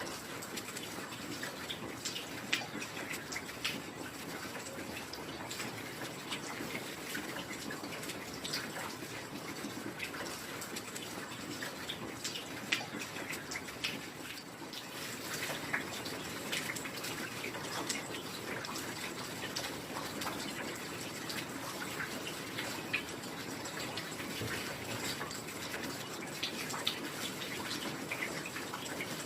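Heavy rain falling steadily, a dense hiss with many scattered sharp drips and patters.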